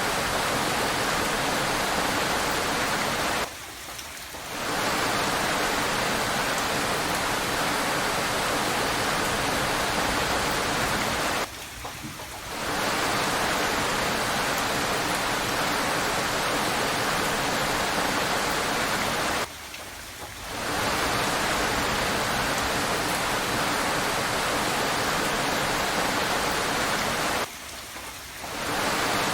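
Steady hiss of heavy rain, which drops away for about a second every eight seconds and swells back each time, four times in all, like a short recording played on a loop.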